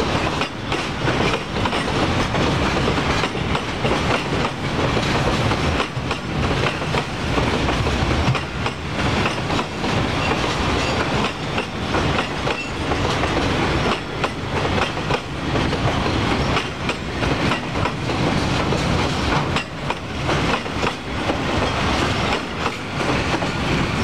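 A freight train's wagons rolling past at steady speed: a continuous rumble with a rapid, uneven clickety-clack of steel wheels over the rail joints.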